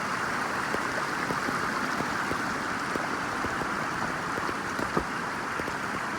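Steady rush of a creek running over rocks, with a few faint ticks scattered through it.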